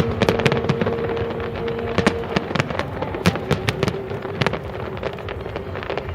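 New Year firework display going off: many sharp cracks and bangs in quick, irregular succession over a continuous rumble of distant bursts.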